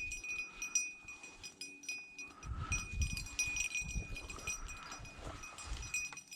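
Footsteps and brush rustling as someone walks through thick cover, with a faint, steady high jingling throughout.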